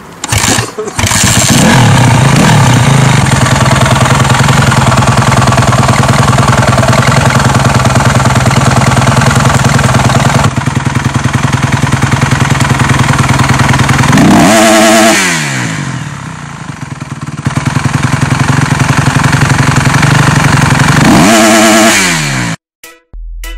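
A Honda CRF motocross bike's single-cylinder four-stroke engine running through a LeoVince aftermarket exhaust, held at steady revs. About two-thirds through the revs fall and climb again. Near the end the revs fall off and the sound cuts off suddenly.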